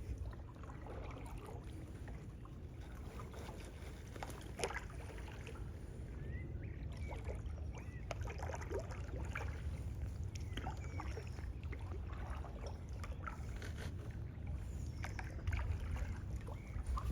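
Kayak being paddled: scattered splashes and drips of the paddle in the water over a steady low rumble.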